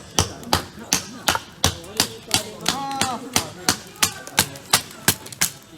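Sharp knocks repeated in a steady rhythm, about three a second, like wood being chopped.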